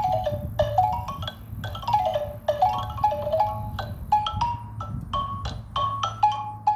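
Xylophone played by hand: quick runs of struck notes rising and falling, then a slower stretch of single notes near the end, over a steady low hum.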